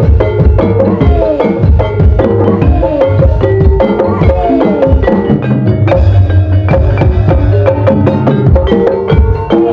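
Live ebeg gamelan music: struck metal keys and gongs ringing over a busy, even percussion pattern, with short drum strokes that bend in pitch again and again.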